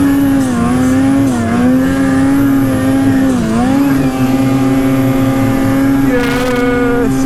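Snowmobile engine held at high revs on a long uphill pull, running steadily with a few brief dips in pitch as the throttle eases and picks up again.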